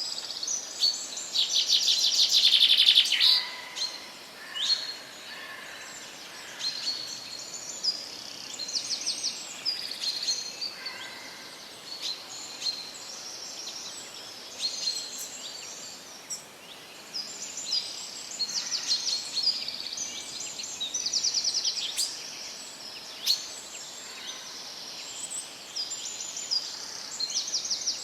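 Several songbirds singing and calling over a faint steady hiss: short chirps and quick rattling trills throughout, with the loudest trill about two seconds in.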